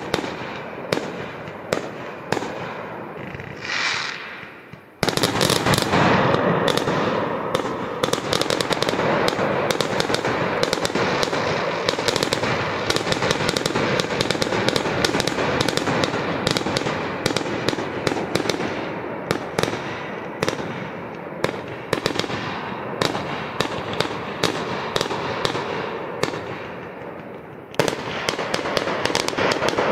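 Consumer fireworks going off: a fast run of bangs and crackling. From about five seconds in, a sudden, much louder and denser barrage.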